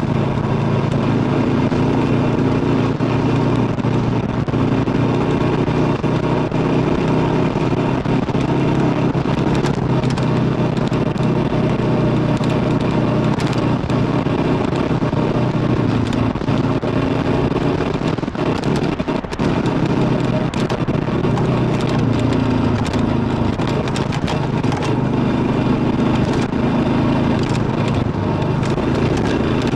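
Kawasaki KLR650's single-cylinder four-stroke engine running steadily under way, heard from on the bike, over a steady wash of road and wind noise with scattered short clicks. The engine sound dips briefly a little past halfway, then picks up again.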